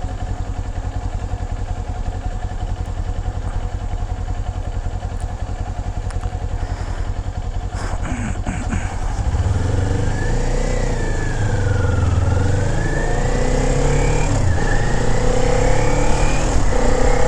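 2021 Kawasaki Z400's parallel-twin engine running while the bike is ridden. It is steady at first, then gets louder about halfway in, with the engine pitch rising, dipping and climbing again as it accelerates.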